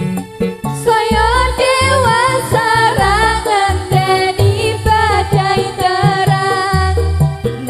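Javanese gamelan music for jaranan: a singer's wavering, ornamented melody over steady metallophone tones and regular low kendang drum strokes. The voice comes in about a second in.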